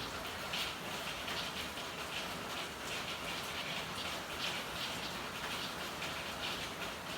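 Steady rain falling, with irregular brighter patters of drops over an even hiss.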